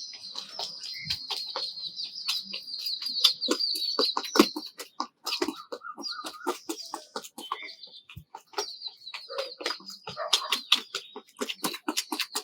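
Quick, even tapping of feet doing a fast-feet netball drill, about four or five steps a second. A high, wavering call like birdsong sounds over it twice, and a lower clucking call comes in about halfway through.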